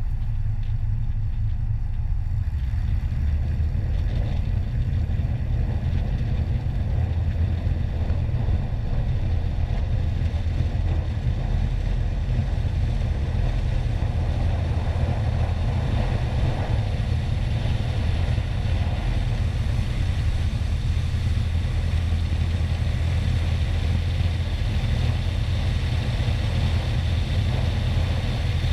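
Cessna 150's four-cylinder Continental O-200 engine and propeller running steadily, a constant low drone.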